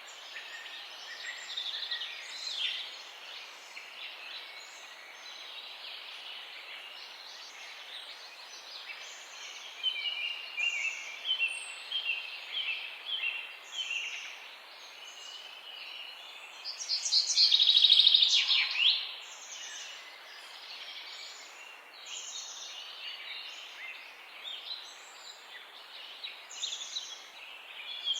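Several wild birds chirping and singing in a morning chorus, over a faint steady background hiss. About ten seconds in, one bird repeats a short note in a quick series, and a little past halfway a loud, rapid trill stands out above the rest.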